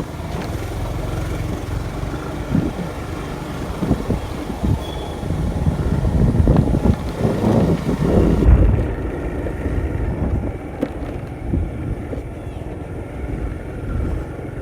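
Riding on a scooter: a low, uneven rumble of wind buffeting the microphone over the scooter's running, with scattered knocks and bumps.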